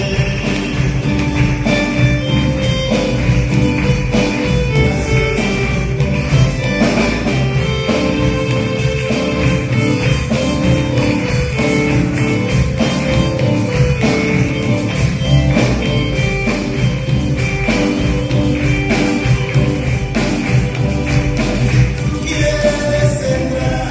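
Live church band playing an upbeat gospel song with a steady beat and a shaking tambourine.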